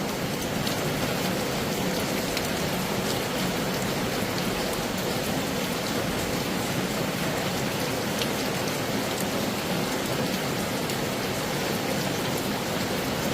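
Heavy rain falling steadily, with scattered sharp taps of individual drops.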